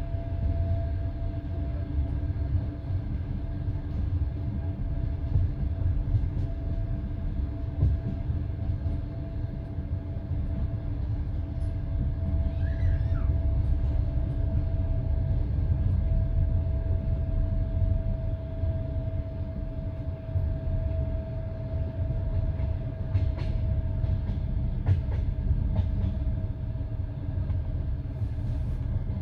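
Passenger train carriage running along the line: a steady low rumble of wheels on rails with a constant hum over it, and a few sharp clicks about three-quarters of the way through.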